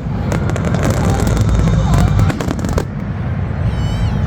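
Fireworks display: dense rapid crackling over a heavy low rumble of bursts, thinning out after about three seconds. A high wavering tone comes in near the end.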